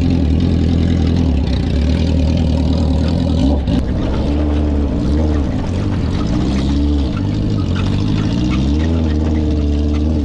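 Vehicle engine running with a steady deep drone; from about halfway through, its pitch rises and falls several times as it is revved or driven.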